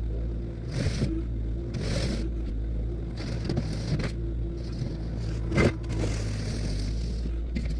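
Compact diesel machine running steadily while working gravel, with a scraping hiss of stones being pushed about once a second. A sharp clank comes about five and a half seconds in.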